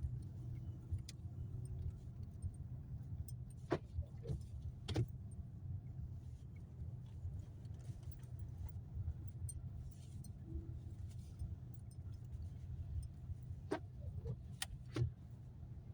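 Steady low rumble of a car moving on a snowy road, heard inside the cabin. A few short clicks or knocks come in two small clusters, about four seconds in and again near the end.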